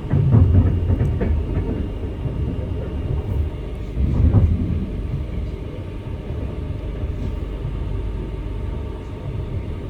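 Passenger train running along the line, heard from on board as a steady low rumble. It swells louder briefly about half a second in and again about four seconds in.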